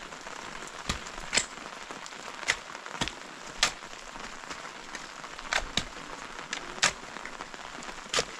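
Steady hiss of heavy rain, with single heavy drops striking a surface irregularly, about ten sharp taps over several seconds.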